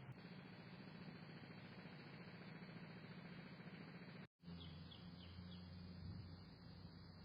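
Faint steady hiss and low hum that drops out for a split second about four seconds in, followed by a few faint, short house finch chirps.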